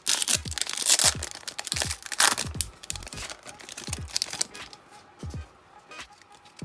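Foil booster-pack wrapper crinkling and tearing open, loudest in the first four and a half seconds, over background music with a steady beat.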